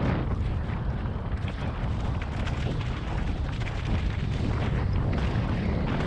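Mountain bike descending loose, rocky ground: tyres crunching and skidding over dirt and stones with a constant stream of small clicks and rattles, under heavy wind rumble on the microphone.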